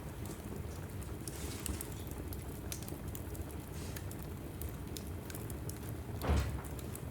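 Wood fire burning in a fireplace: a steady low rumble with scattered crackles and pops, and one louder dull thump about six seconds in.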